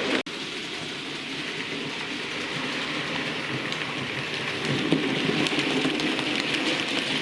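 Bachmann A1 Pacific model locomotive running on model railway track: a steady rattling whir of motor and wheels on the rails with faint ticks. It cuts out sharply about a quarter-second in, resumes a little quieter, and grows louder again.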